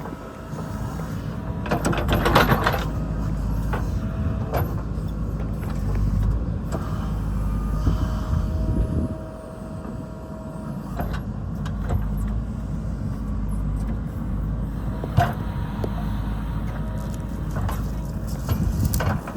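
Heavy diesel construction machinery running with a steady low rumble, with metal clanks and knocks and a louder grinding scrape about two seconds in.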